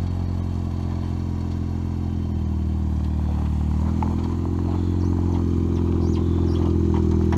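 Ford Fiesta ST rally car's engine running as it drives slowly. Its pitch steps up slightly about four seconds in, with a few light clattering ticks.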